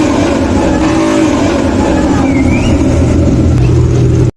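Loud performance vehicle engine: one rev rises and falls about a second in, then a steady low rumble follows. It breaks off abruptly near the end.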